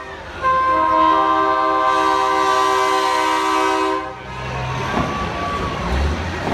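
Semi truck's multi-note chord air horn, a train-style horn, blowing one long steady blast of about three and a half seconds, followed by a low truck engine rumble.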